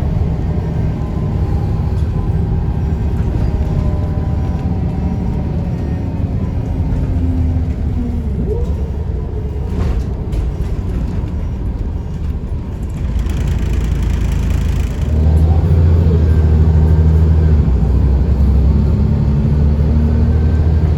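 Scania L94UB bus's DSC9 diesel engine running on the road, with a hiss lasting about two seconds near the two-thirds mark. The engine then grows louder and heavier, as if pulling under load.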